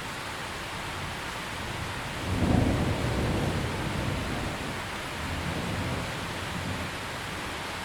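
Steady heavy rain, with a low roll of thunder that swells about two and a half seconds in and fades over the next couple of seconds, then a fainter second rumble a few seconds later.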